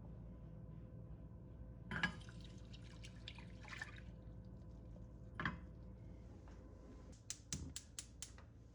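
Kitchen handling sounds while oatmeal is prepared: a knock, then a short noisy stretch of pouring or rustling. Another knock follows, then a quick run of about six sharp clicks near the end.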